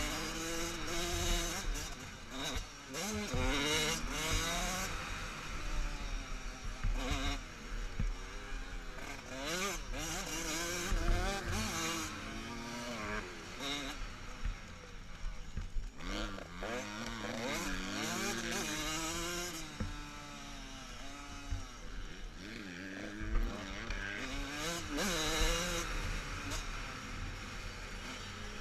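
Motocross motorcycles running hard, engine pitch climbing and dropping again and again as the riders open and close the throttle and shift gears, several bikes overlapping at times.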